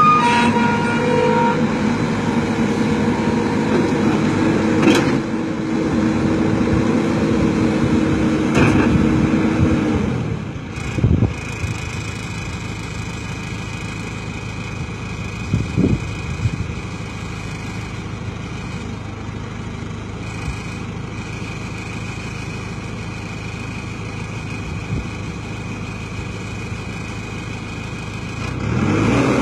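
Backhoe loader's diesel engine working at higher revs for the first ten seconds or so, then settling to a lower, steadier running level with a couple of short knocks, and picking up again near the end.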